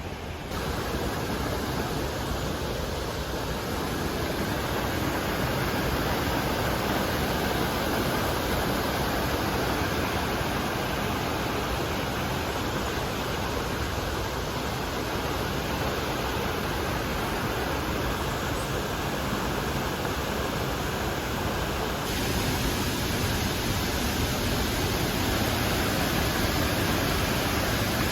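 La Paz Waterfall pouring: a steady, even rushing of falling water.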